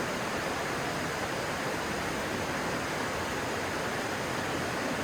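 Steady rushing of a stream's flowing water, an even hiss with no breaks or changes.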